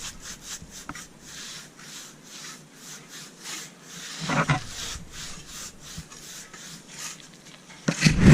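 Stiff brush dragged across a freshly troweled cement patch in quick repeated scratchy strokes, about three or four a second, roughing the surface for a non-slip finish. A louder knock comes near the end.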